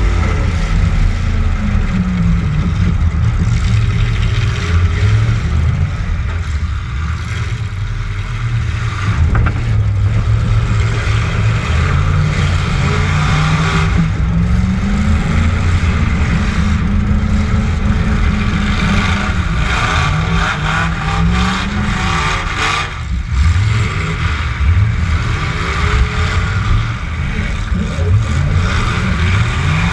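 Demolition derby truck's engine revving up and down again and again, its pitch climbing and falling every few seconds under heavy mechanical and tyre noise, with a few short knocks.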